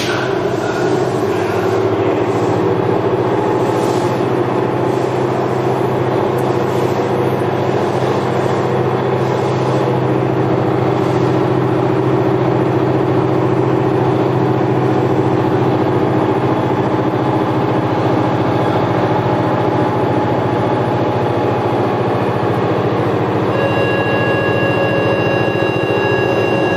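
Interior running noise of a Tokyo Metro 5000 series subway car: a steady low rumble with wheel-on-rail noise and a few faint clicks in the first dozen seconds. Near the end a steady high-pitched tone with overtones comes in.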